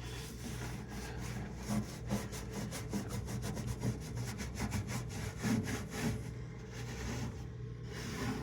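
Scrubbing inside a microwave around the turntable's center track: fast, rhythmic back-and-forth rubbing strokes, several a second, working at stubborn stains that may be rust. It eases off about six seconds in.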